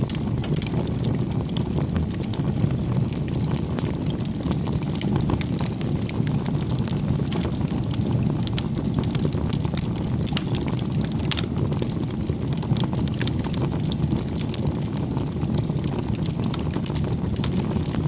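Wood fire crackling, with a steady low rumble of the flames and frequent small sharp pops.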